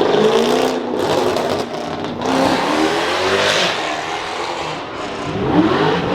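Car engines revving hard through loud exhausts, the pitch climbing and falling over and over, with a couple of sharp cracks in the first two seconds.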